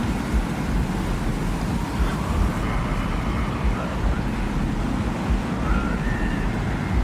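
Desert wind ambience: a steady, loud wind with a deep low rumble and hiss, and faint short whistling tones that come and go.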